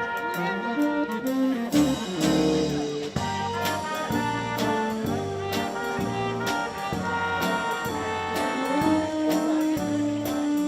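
Brass band playing a dance tune, with trumpets and trombones over a steady beat.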